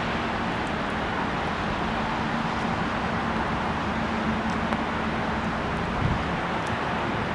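Electric multiple-unit train running, a steady rushing noise with a constant low hum beneath it, and a brief thump about six seconds in.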